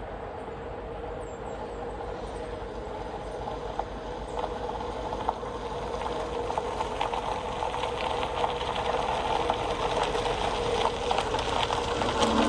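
The 1965 Ford F-100 pickup's engine running steadily, growing louder throughout, with faint ticks scattered through the sound.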